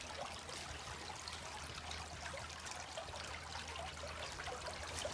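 Water trickling steadily, like a small creek running below a bridge.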